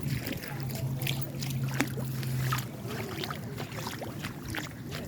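Floodwater splashing and trickling in short irregular bursts, over a low steady hum that stops about halfway through.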